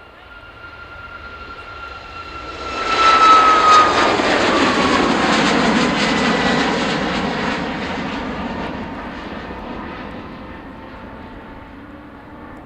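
A jet airliner passes close by. Its engine noise builds to a peak about three seconds in, with a high whine that drops in pitch as it goes past, then slowly fades.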